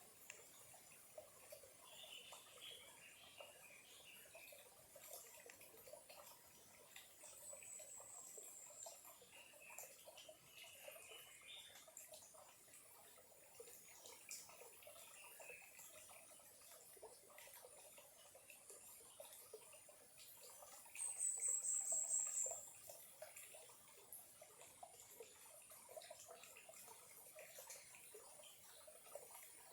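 Faint trickle and drip of a small stream. Clusters of short high chirps come about 2 and 10 seconds in, and a brief, high, rapid trill lasting about a second and a half about 21 seconds in is the loudest sound.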